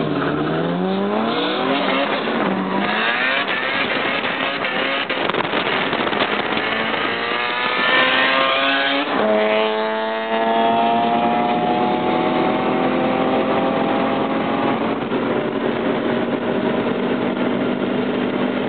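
Turbocharged car engine accelerating hard through the gears. Its pitch climbs, drops sharply at a gear change about nine seconds in, then climbs slowly and levels off at speed. It is heard from inside the Subaru STI's cabin.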